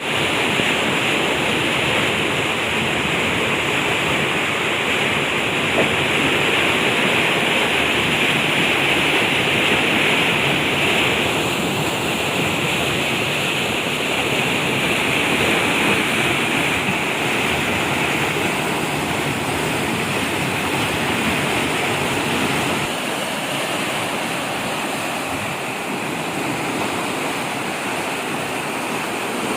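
Fast-flowing floodwater rushing in a steady, loud noise, like a weir or stream.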